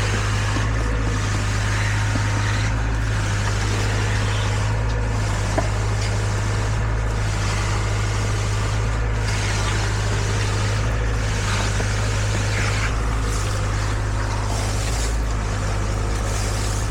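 Heavy engine running steadily with a constant low drone, its hiss dipping briefly about every two seconds, typical of concrete delivery equipment working on site.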